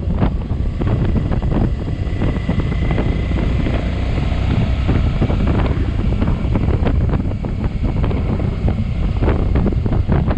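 Wind buffeting the microphone of a camera on a moving motorcycle, a loud, steady rumble, with the motorbike's engine and road noise underneath.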